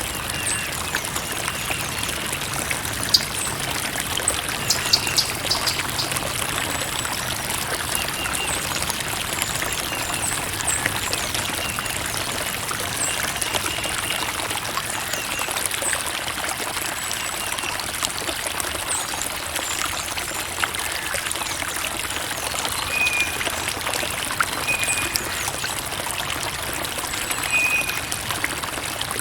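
Creek water trickling steadily, with many small splashes.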